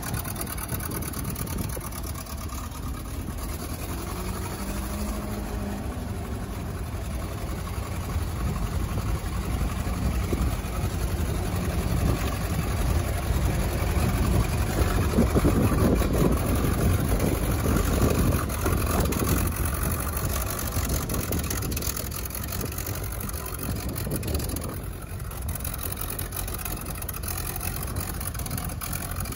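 Propane-fuelled engine of a Case 830 Comfort King tractor running at idle after a cold start, growing louder for several seconds in the middle before settling back.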